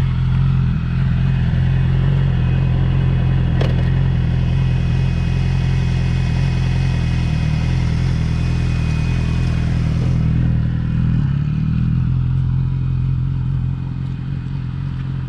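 Yamaha R6's inline-four engine running steadily at low revs, with one brief click about four seconds in. The engine grows somewhat quieter over the last couple of seconds.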